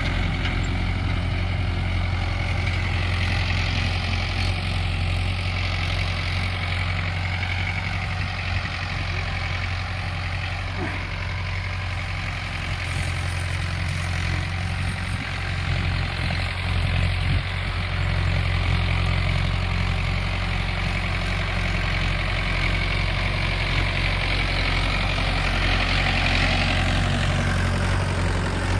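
Mahindra Yuvo 575 DI tractor's four-cylinder diesel engine running steadily.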